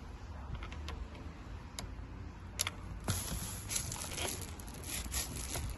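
Small sharp clicks and ticks of a T20 Torx bit working screws out of plastic trim: a few separate clicks at first, then a quicker run of ticking from about halfway through.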